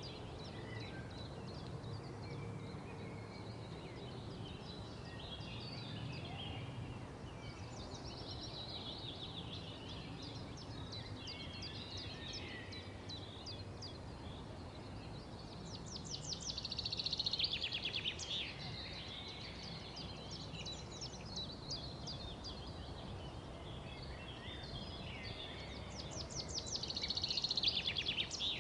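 Songbirds chirping and twittering, with two louder rapid trills about halfway through and again near the end, over a steady low background rumble.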